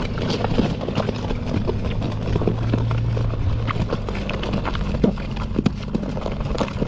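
An engine running steadily, with many irregular clattering knocks and clicks over it.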